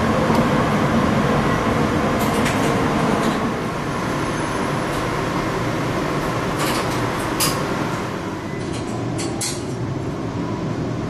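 JR East 701-series electric train running, heard from inside the car: a steady rumble with clacks of the wheels over rail joints, in small clusters several times.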